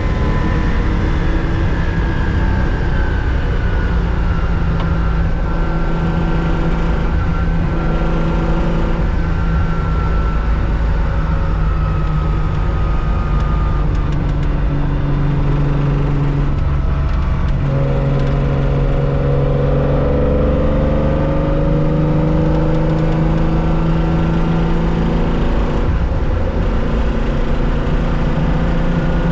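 1965 Porsche 911 2.0's air-cooled flat-six running hard at racing speed, heard from inside the cockpit, loud and steady with its pitch changing a few times.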